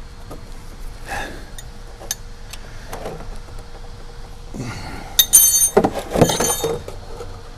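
Metal hand tools clinking and rattling, a few light clicks at first, then a louder cluster of clanks with a bright metallic ring about five to six and a half seconds in.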